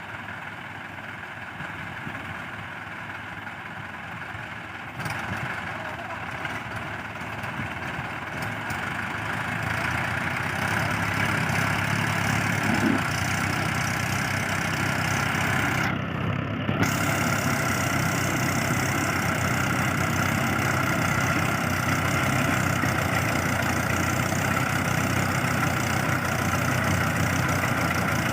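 Diesel tractor engine running under load, growing louder over the first ten seconds or so and then holding steady.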